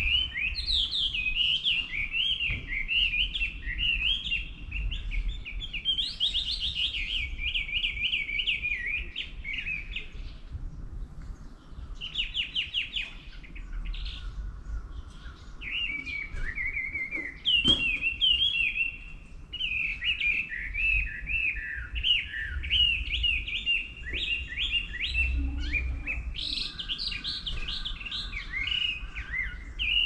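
Wild songbirds singing: long runs of fast, chirping phrases, broken by short pauses about ten and fourteen seconds in.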